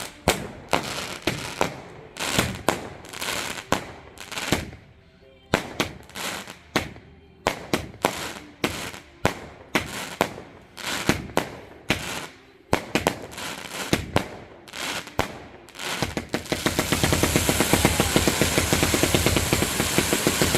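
Fireworks going off in a barrage: a run of sharp bangs, about one to two a second, each with a short echoing tail. About three-quarters of the way in, a dense continuous crackle takes over.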